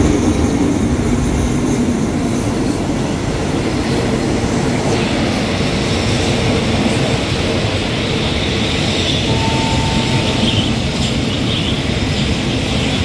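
Diesel-hauled passenger train rolling slowly along the platform as it arrives at the station: a steady heavy rumble of the locomotive and coach wheels on the rails, loudest as the locomotive passes. A high brake hiss sets in about five seconds in, and a brief thin squeal follows around nine seconds in.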